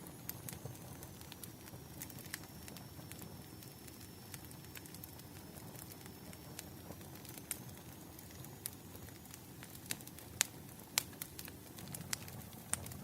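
Wood fire crackling: irregular sharp pops and snaps over a steady low rumble, a few louder pops near the end, with a faint high thin whistle through most of it.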